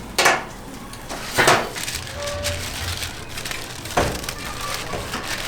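Kitchen work clatter: three sharp knocks, about a second or two apart, over a steady low hum.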